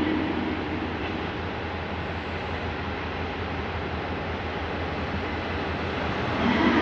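JR Hokkaido 789 series 1000 electric train running, a steady rumble and hiss of wheels and motors.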